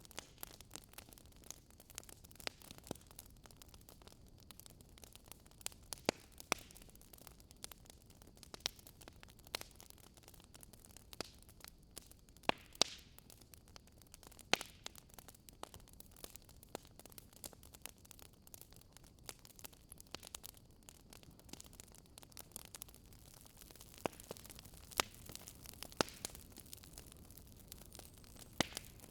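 Fireplace wood fire crackling: a soft steady hiss with irregular sharp pops and snaps, a few louder than the rest.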